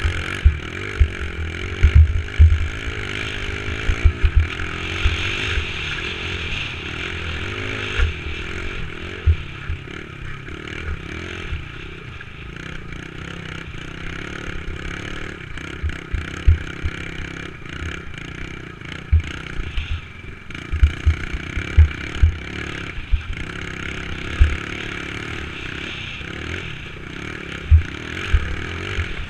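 Dirt bike engine running as the bike is ridden, its pitch rising and falling with the throttle, with frequent short low thumps on the microphone.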